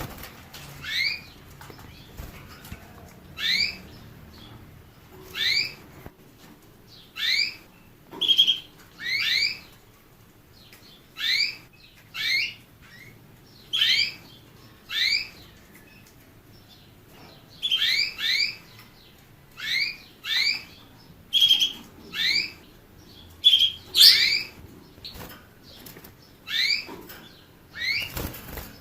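A caged finch giving short, rising chirped call notes, one every second or two and sometimes two in quick succession. A brief rustle comes near the end.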